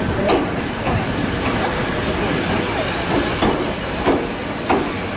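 Ohmi Railway 800 series electric train rolling slowly into the platform: a steady rumble of running noise with several sharp wheel clacks over the rail joints.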